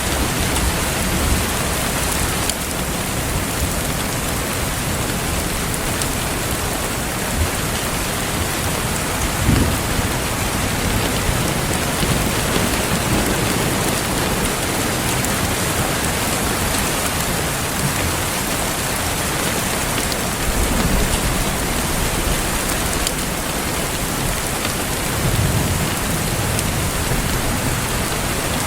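Steady heavy rain hiss, with faint fireplace crackles mixed in and a few short low swells about a third of the way in, two-thirds of the way in and near the end.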